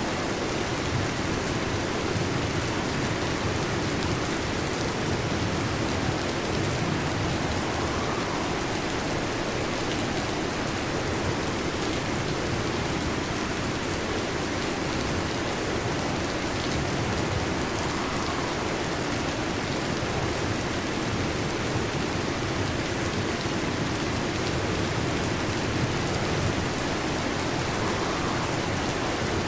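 Heavy rain falling steadily on a metal roof, a dense, even patter with no break.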